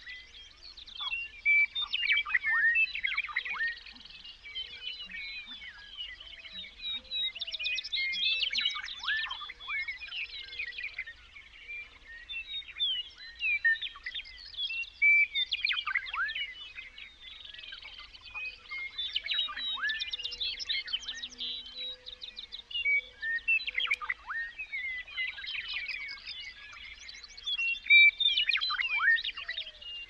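Songbirds singing: bouts of quick, steeply falling whistled notes and trills, several voices overlapping, coming back every few seconds.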